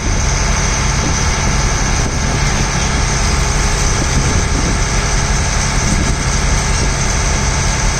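Ferry boat's engine running with a steady low drone, a constant hiss of wind and water over it.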